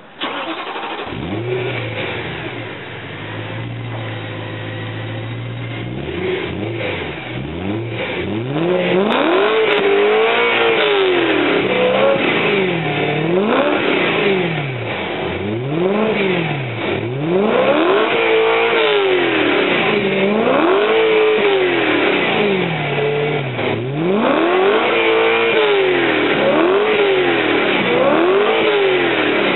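BMW M3 E92's 4.0-litre V8 starting and settling into a steady idle, then revved over and over from about six seconds in, the exhaust note rising and falling roughly every two seconds. Heard from behind the car at its quad exhaust tips.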